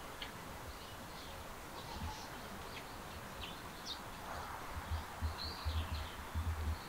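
Birds chirping with short, scattered high calls over a faint outdoor hiss, and several low thumps in the last two seconds.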